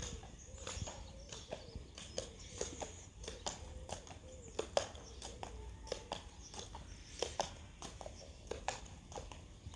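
Rain falling, with large drops tapping irregularly, several a second, over a low steady rumble.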